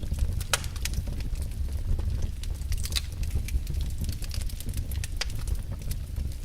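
Wood fire in a fireplace crackling: scattered sharp pops and snaps over a low steady rumble, with the loudest pops about half a second in and about three seconds in.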